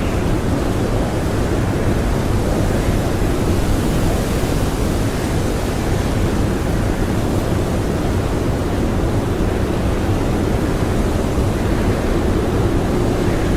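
Strong blizzard wind blowing steadily, a dense low rushing noise with no gusts, breaks or distinct events.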